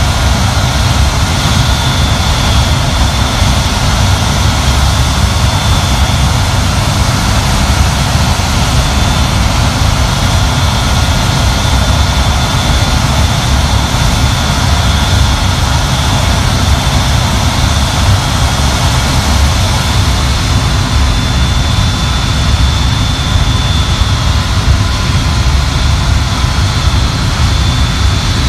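Avro Vulcan XM655's Rolls-Royce Olympus turbojets running steadily during a ground engine run: a loud, constant deep rumble with a faint high whine above it.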